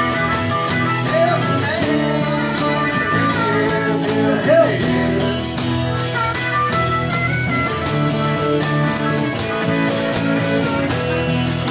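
Live Americana band playing an instrumental passage of a country-rock song: guitars and a bending melodic lead over a steady drum beat.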